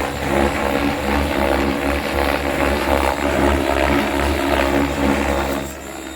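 Electric XL Power 550 RC helicopter flying, its rotor blades whirring and pulsing with a steady motor whine; the sound drops in level shortly before the end.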